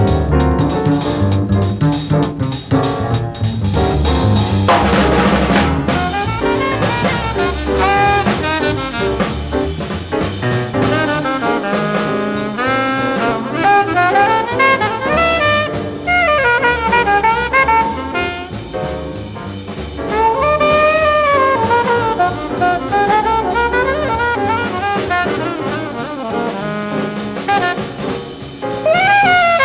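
Live bebop jazz combo playing: the drum kit is prominent for the first few seconds, then from about six seconds in a horn plays a fast, winding solo line over the rhythm section.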